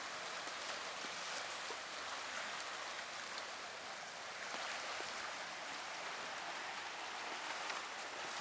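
Steady wash of harbour water against the shore, an even hiss with a few faint scattered ticks.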